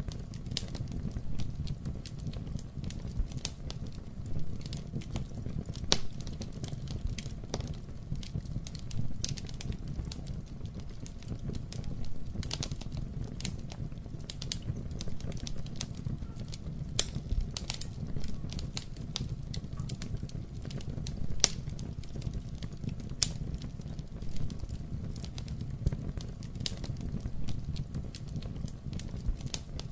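Campfire burning, with a steady low rumble of flame and frequent irregular sharp crackles and pops from the burning wood.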